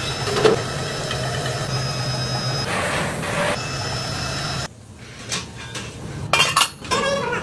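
A machine running with a steady hum that cuts off suddenly about two-thirds of the way in, followed by a few sharp metal clanks.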